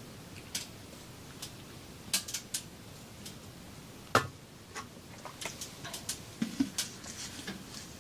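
Scattered light clicks and knocks of objects being handled, with one heavier knock about four seconds in and a quicker run of small clicks in the second half.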